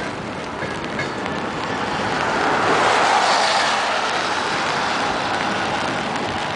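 Freight train of tank cars and boxcars rolling past in heavy rain, a steady rushing noise that swells to its loudest about halfway through and then eases, with a few faint clicks.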